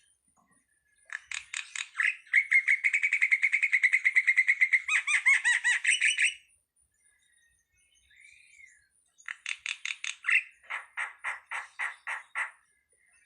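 Starling (jalak) singing: a rapid run of repeated chattering notes lasting about five seconds, a pause and one short whistle, then a second run of about ten evenly spaced notes.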